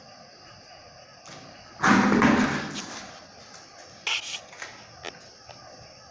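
A heavy thud about two seconds in that dies away over most of a second, then a sharper knock about two seconds later and a couple of faint clicks.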